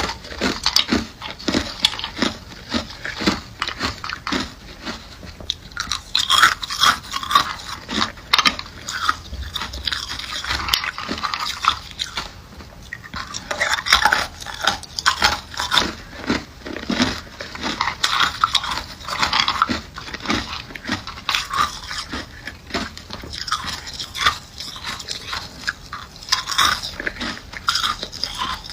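Someone biting and chewing ice close to the microphone: repeated sharp crunches and crackles, many each second, without a break.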